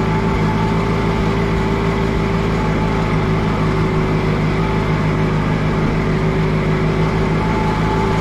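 Allis-Chalmers G tractor's small four-cylinder gasoline engine running steadily at an even speed. Its carburetor is maybe gummed up by stale gas after sitting since summer.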